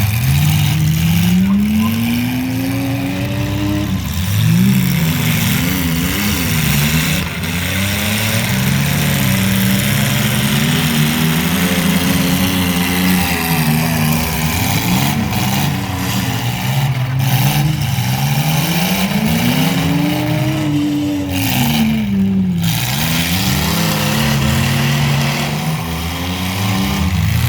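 Several mini-truck engines revving as they race, their pitch repeatedly climbing and dropping and overlapping one another.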